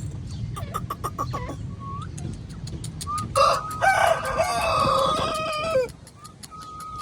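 Black francolin calling: a loud, harsh call of about two and a half seconds in the middle, ending with a falling note, with clicks and short rising whistles before it and a steady whistle near the end.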